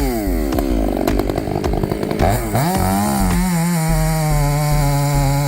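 Chainsaw engine revved up and down several times in quick succession, then rising to a steady high speed about halfway through and holding there.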